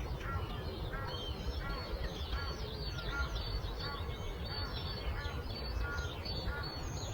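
Songbirds chirping and twittering in a dense dawn chorus, many short repeated calls overlapping. Under them is a steady low rumble of breeze.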